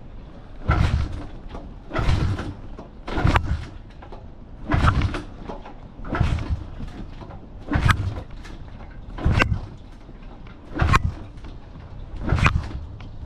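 Honda Fan single-cylinder motorcycle being kick-started over and over, about nine kicks roughly one every second and a half, the engine turning over without catching. The owner thinks the failure to start has to do with fuel.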